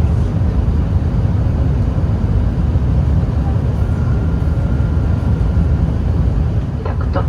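Steady roar of an Airbus A380's jet engines and rushing air, heard inside the passenger cabin, with a deep rumble and a faint steady whine partway through.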